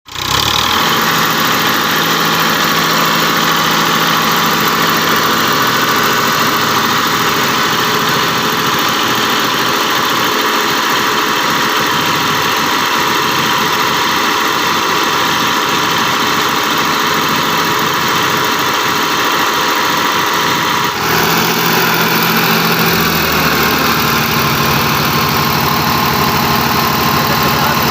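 Tractor diesel engine running steadily, with an abrupt change in its sound about 21 seconds in.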